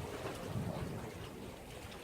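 Sea waves washing against a breakwater: a steady rush of water with a low rumble that swells about half a second in.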